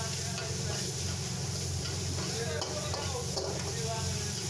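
Chopped onion frying in hot oil in a wok, sizzling steadily while a metal ladle stirs it, over a steady low hum.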